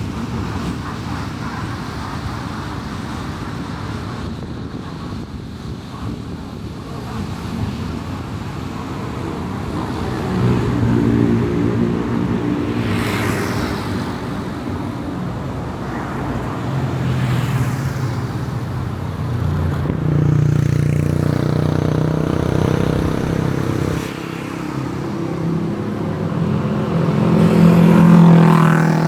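Car driving on a highway, steady road and tyre noise. From about a third of the way in the engine hum comes up and rises and falls, with two brief swooshes of passing traffic. Near the end the engine rises in pitch and gets louder as the car accelerates.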